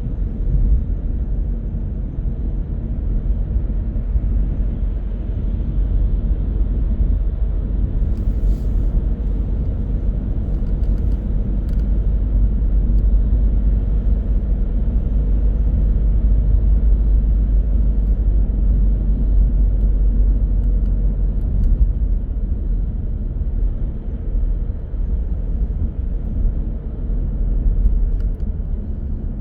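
A car driving: a steady low rumble of engine and road noise, with a brief faint click about eight and a half seconds in.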